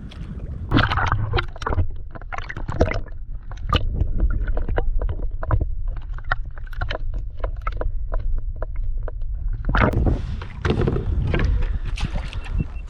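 Water sloshing and splashing around a fishing kayak, with irregular knocks and clicks of gear against the hull, over a low rumble of wind on the microphone. A louder stretch of splashing comes about ten seconds in.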